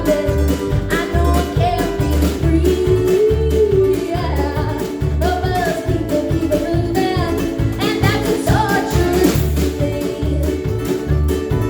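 A live band playing a song: a lead voice singing over strummed guitar and a bass line that pulses on a steady beat.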